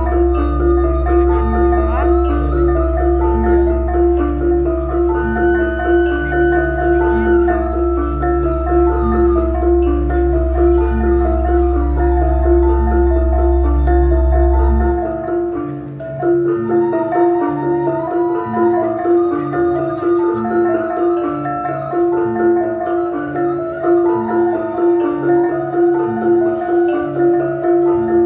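Javanese gamelan ensemble playing a gending, bronze metallophones striking repeating notes in an even rhythm. A deep low hum underneath cuts off suddenly about halfway through.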